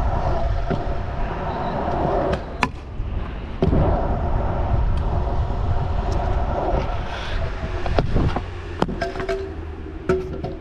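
Stunt scooter wheels rolling over skatepark concrete in a steady rumble, with a few sharp clacks as the scooter hits the ground.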